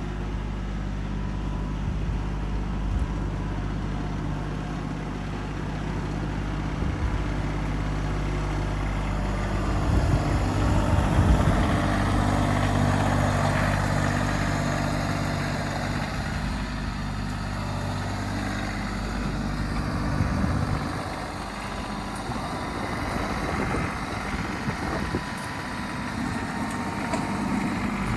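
Small farm tractor's engine running steadily, the revs rising and falling under load about ten seconds in, then easing back.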